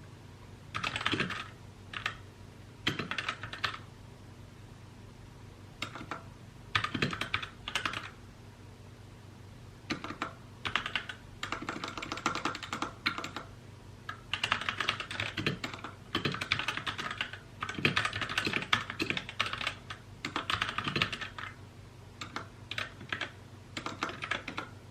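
Typing on a mechanical keyboard, rapid key clicks in bursts with short pauses between them, the longest unbroken run of typing in the second half.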